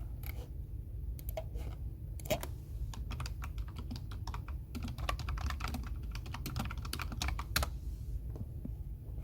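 Typing on a computer keyboard: a few scattered keystrokes, then a quick run of typing lasting about five seconds that stops near the end, over a steady low background hum.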